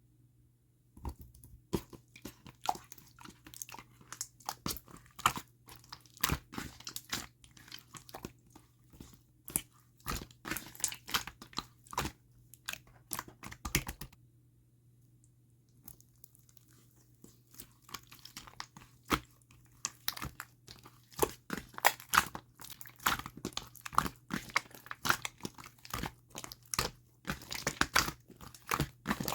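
Slime being squished and pressed by hand, giving a dense run of crackling clicks and pops. The clicking stops for about two seconds in the middle, then starts again.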